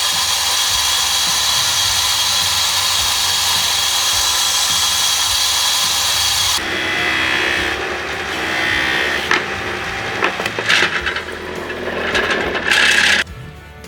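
A power tool grinding or sanding runs steadily and cuts off about six and a half seconds in. It is followed by irregular scraping and rubbing with a few sharp bursts, typical of knife-making work on a wooden handle or steel blade. Music comes in just before the end.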